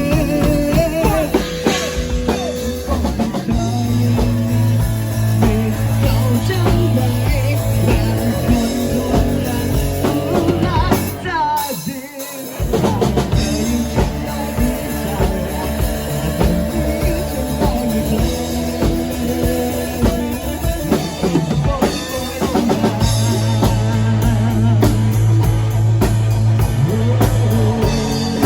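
Rock band playing an instrumental passage on drum kit and bass, with the music dropping out briefly about halfway through.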